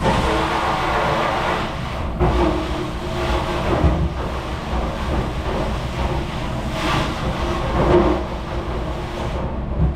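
Continuous loud mechanical rumble with a few brief louder knocks.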